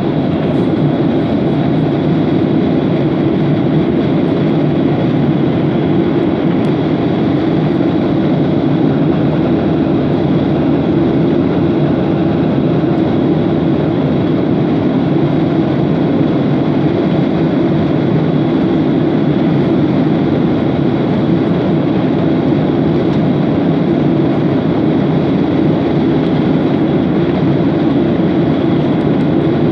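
Airliner cabin noise in cruise flight: a steady, loud rush of engine and airflow with a faint steady high whine.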